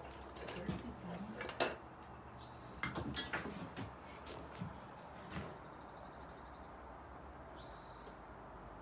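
A series of clicks and knocks from handling in the shop, the loudest a sharp click about a second and a half in, with a small bird chirping several times, including a short rapid trill midway.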